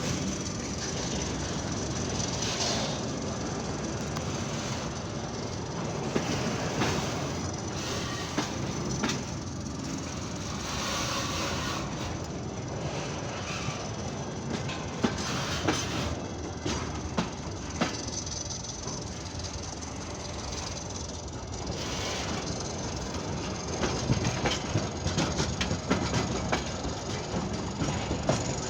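Freight train wagons rolling by, a steady rumble broken by sharp clacks of the wheels over rail joints that come thicker and louder near the end, with a faint thin high wheel squeal at times.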